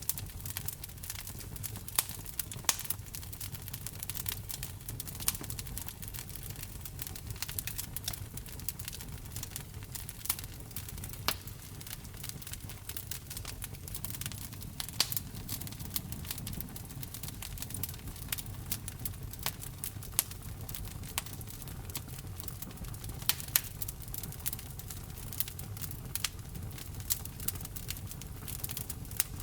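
Wood fire burning in a fireplace, crackling with irregular sharp pops, a few louder than the rest, over a steady low rumble.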